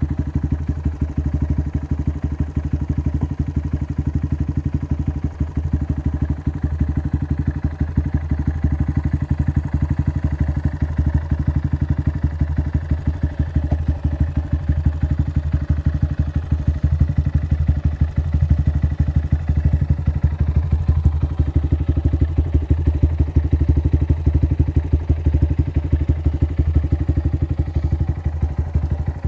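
2019 Honda Grom's single-cylinder four-stroke engine idling steadily through a Yoshimura RS-2 Race Mini Works exhaust with the dB killer silencer insert removed, still warming up after a cold start. A rapid even low pulsing, a little louder in the second half.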